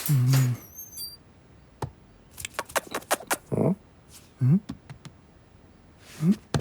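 Cartoon kitten sound effects: a low grunt at the start, brief high squeaks, then a run of light clicks and taps between short mews that rise in pitch, the last one near the end.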